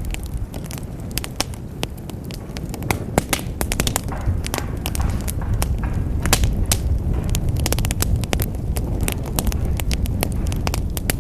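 Wood fire crackling in a fireplace: frequent sharp pops and snaps, irregularly spaced, over a low steady rumble of the burning logs.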